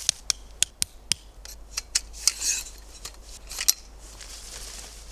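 Metal tent pegs being struck into hard frozen ground: sharp metallic clinks about three a second that thin out and stop a little over halfway through. The ground is so hard that the pegs bend and won't hold.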